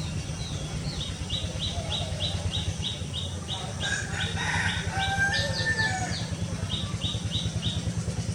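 Songbirds calling: one repeats a short high note about three times a second, and others call around the middle. A steady low rumble runs underneath.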